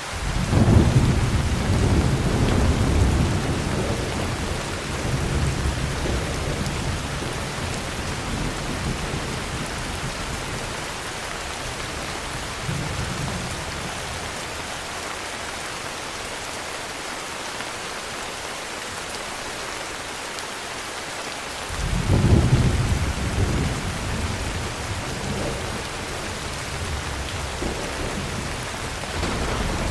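Steady heavy rain with rolling thunder: a deep rumble starts at once and fades over several seconds, another breaks about two-thirds of the way through, and a third builds near the end.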